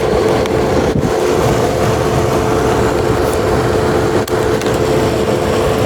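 Steady mechanical running noise with a constant hum.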